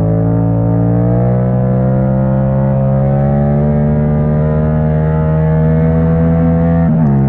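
Yamaha MT-07's parallel-twin engine through an open Akrapovic exhaust, pulling under load in third gear for a wheelie, its pitch rising slowly. Near the end the pitch briefly dips and recovers.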